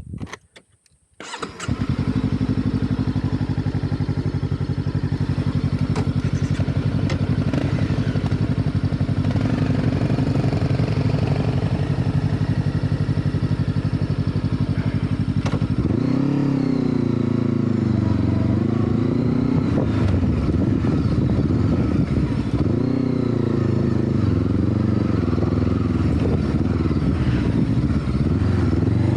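Motorcycle engine starting about a second and a half in and idling steadily, then revving, its pitch rising and falling, from about halfway through.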